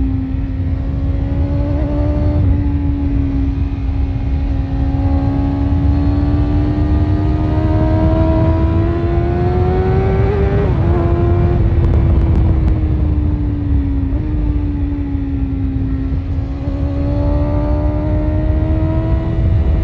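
BMW S1000RR inline-four engine with an Akrapovic exhaust running steadily under way. Its pitch climbs slowly, drops sharply about halfway through, dips again a few seconds later, then holds steady, with a heavy low rumble underneath.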